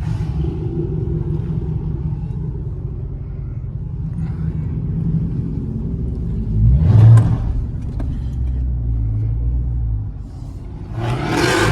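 Dodge Charger R/T's V8 running low and steady on its stock exhaust with the catalytic converters still on, heard from inside the car. A brief louder surge comes about seven seconds in, and a loud rush of noise near the end.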